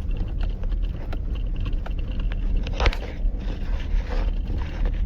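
Cab noise of a GMC Sierra pickup driving a rough back road: a steady low rumble from tyres and engine, with scattered rattles and one sharper knock about three seconds in.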